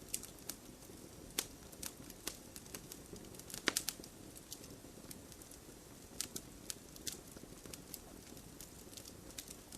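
Wood fire crackling: a low, steady rush with irregular sharp pops and snaps, a quick cluster of louder pops a little past a third of the way through.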